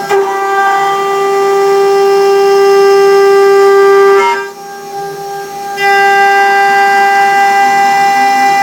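CNC mill cutting aluminium, the cut giving a loud, steady high-pitched singing tone. About four seconds in it drops away for a second and a half, then comes back as the cut resumes.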